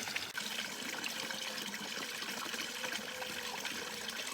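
Steady rain falling, with water trickling and a faint steady hum underneath.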